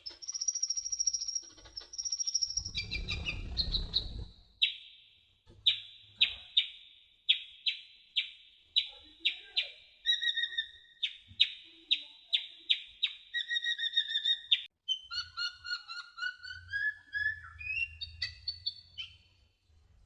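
Kolibri ninja (sunbird) singing: a high, rapid song of sharp chirps, with a long run of short, evenly spaced notes in the middle and rising, warbled phrases near the end.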